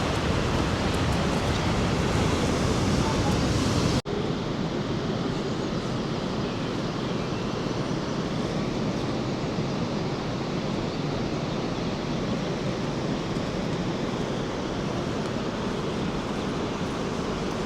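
Rushing water of the Rhine Falls, a steady even roar of noise. About four seconds in it cuts off abruptly and resumes at once, slightly softer and duller.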